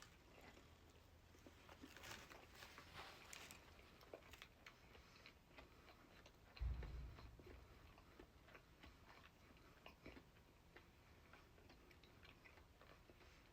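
Faint close-up chewing and mouth clicks of a person eating, with scattered small crunches. A single low thump about seven seconds in.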